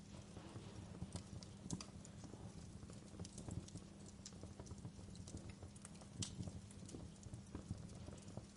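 Wood fire crackling in a fireplace: irregular snaps and pops, a few louder than the rest, over a steady low rumble of burning.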